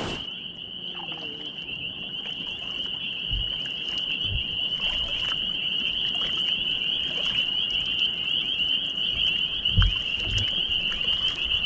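A steady, high-pitched chorus of frogs trilling without a break, with a few dull low thumps now and then.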